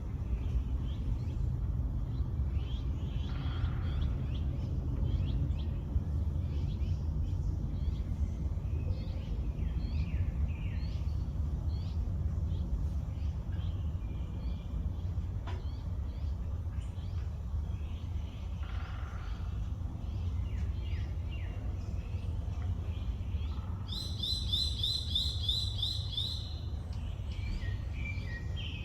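Wild birds chirping and calling, many short faint notes overlapping, with one bird giving a loud, rapid trill of evenly repeated notes for about two seconds near the end. A steady low rumble runs underneath.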